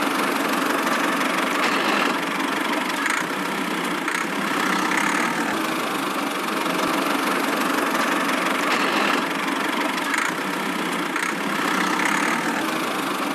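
Small engine running steadily, with a faint swell about every second.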